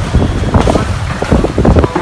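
Strong storm wind buffeting the phone's microphone, a loud low rumble that rises and falls with the gusts.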